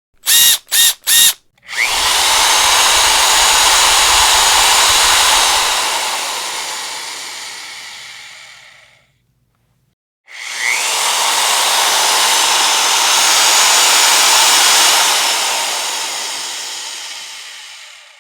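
Electric power drill: three quick blips of the trigger, then two long runs of about seven seconds each with a short pause between them, each run trailing off gradually at the end.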